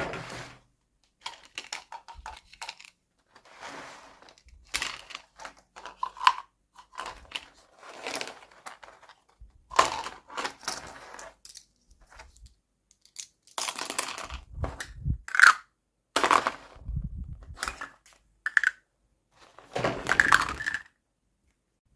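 Plastic packaging and small plastic toy kitchen pieces being handled, with irregular bursts of crinkling, clicks and light knocks and a few brief squeaks, separated by short pauses.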